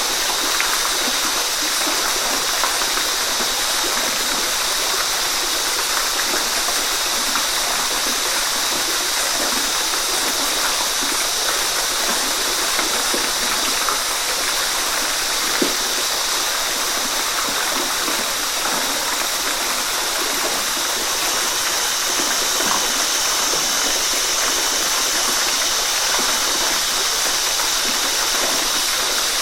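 Waterfall: falling water rushing and splashing in a steady, unbroken hiss.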